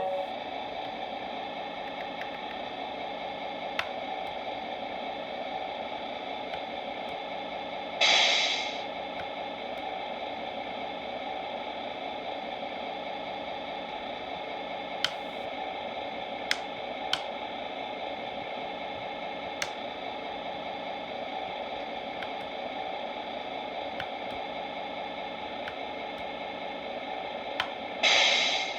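Simulated diesel engine idling steadily, played through the small speaker of a Tamiya MFC-03 sound unit in a 1/14 Scania R620 RC truck. Two short air hisses come about 8 seconds in and near the end, with a few sharp clicks in between.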